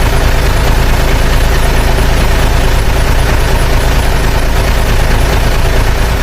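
A heavy vehicle engine running steadily with a deep, even rumble.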